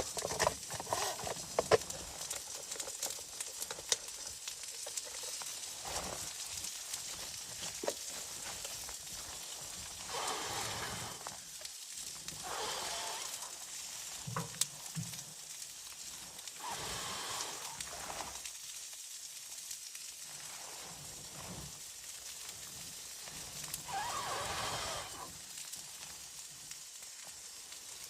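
Wood stove fire crackling and hissing, with sharp crackles near the start. Four louder sounds, each about a second long, come and go over it.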